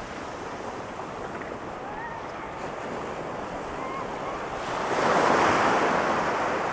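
Ocean surf washing on a sandy beach, a steady rush that swells louder about five seconds in as a wave breaks and runs up the shore.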